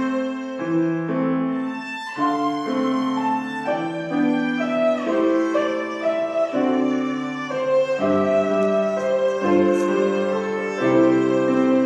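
Violin playing a slow melody in long held notes, with a second instrument, likely piano, accompanying.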